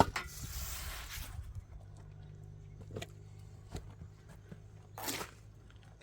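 A steady low motor hum, with a sharp knock at the start and a rushing, scraping noise over the first second or so, a few light knocks, and another brief rush of noise about five seconds in.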